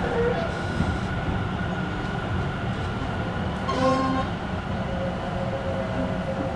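Tobu electric train running, heard from inside the car: a steady rumble of wheels and motors with steady tones. A short horn toot sounds about four seconds in.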